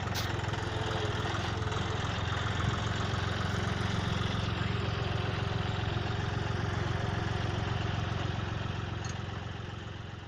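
Tractor engine running steadily at idle, a constant low drone that fades away near the end.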